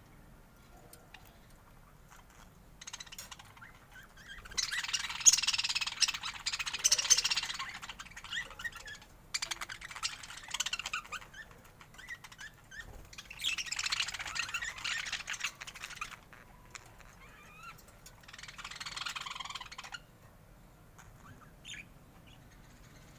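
Budgerigars chattering and warbling in four bursts of a few seconds each, with quieter gaps of scattered chirps between; the first burst is the loudest.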